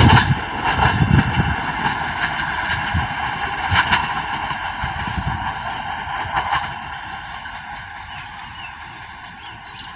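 Diesel commuter multiple-unit train running away around a curve, its low rumble and a few sharp wheel-on-rail knocks fading steadily as it draws off into the distance.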